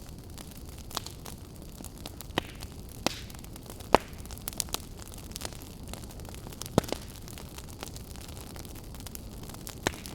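Campfire burning, with a steady low rumble and irregular sharp crackles and pops of burning wood, the loudest about four seconds in and another near seven seconds.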